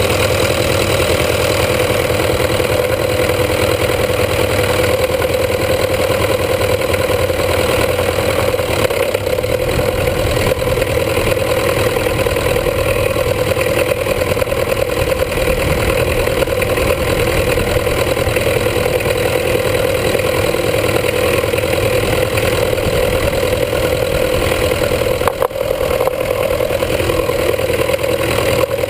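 International B250 tractor's diesel engine running at a steady speed, heard close up from under the tractor.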